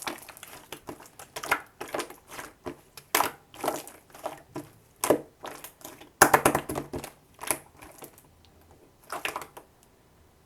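Slime being squeezed and worked by hand: irregular sticky clicks, pops and crackles. The busiest, loudest stretch comes about six seconds in, and the sounds thin out near the end.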